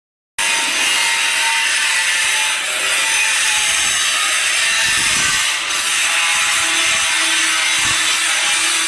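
Stick (arc) welding on a steel pipe joint: the arc crackles and fizzes steadily.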